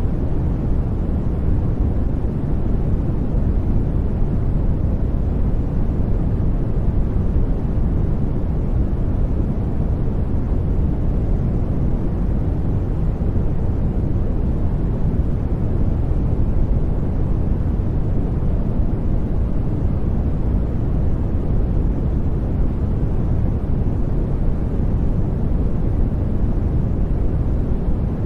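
Steady noise-masking sound, an even rushing hiss weighted toward the deep end, with no changes, tones or rhythm.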